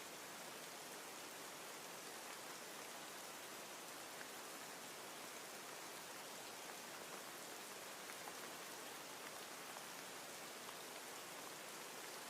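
Steady, faint rain falling, an even hiss with small scattered drop ticks.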